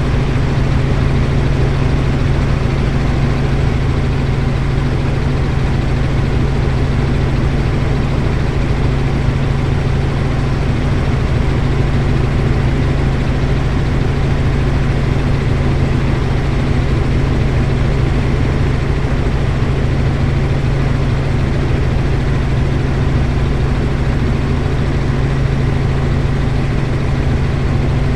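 Helicopter running steadily: a loud, even low hum with no change in pitch or level.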